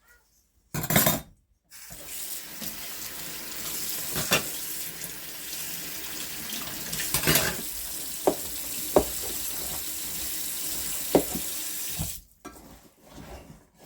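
Kitchen tap running into a sink as a steady rush of water for about ten seconds, then shut off, with a few sharp clinks over it. A short loud splash comes just before the flow settles.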